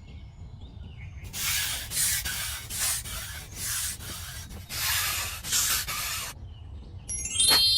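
A series of about five rasping scraping strokes, roughly one a second, like something being rubbed or sanded. Near the end comes a bright, chime-like musical flourish.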